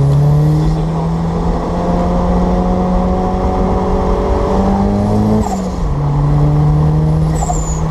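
1994 Toyota MR2 Turbo's turbocharged four-cylinder engine accelerating, its pitch climbing steadily for about five seconds, then dropping sharply on an upshift and running steady.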